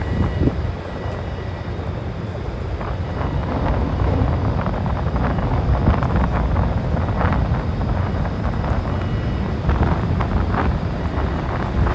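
Heavy trucks running as they drive off a car ferry: a steady low engine rumble with wind buffeting the microphone and scattered short knocks.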